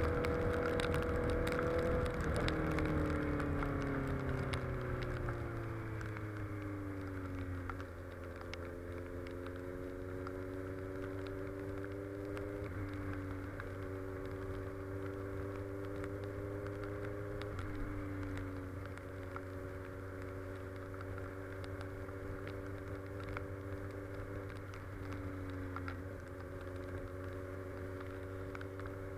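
Honda CB650F's inline-four engine through an open exhaust, heard from the saddle while riding. The engine note falls over the first several seconds as the throttle is eased, then holds a steady low cruise with a few brief dips, over wind and road noise.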